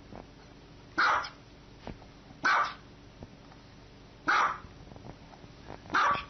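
Small dog barking four times, short sharp barks about a second and a half to two seconds apart.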